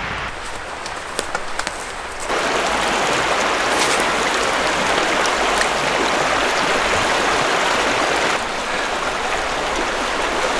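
River water rushing steadily over rocks, louder from about two seconds in and a little softer near the end.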